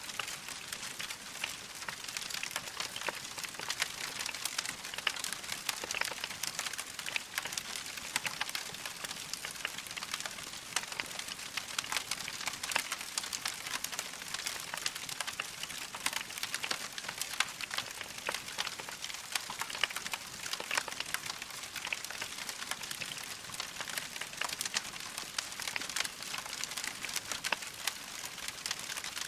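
Wood fire crackling steadily: a dense run of small, sharp crackles over a soft hiss, with no let-up.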